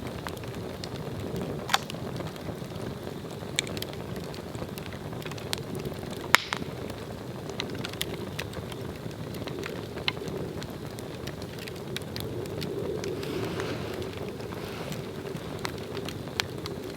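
Swedish torch, an upright split log, burning with a steady rushing noise and scattered sharp crackles and pops. The loudest pop comes about six seconds in.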